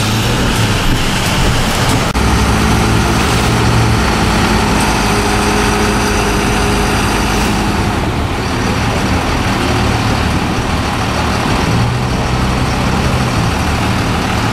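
Motor vehicle running steadily, with a low engine hum under constant road and wind noise.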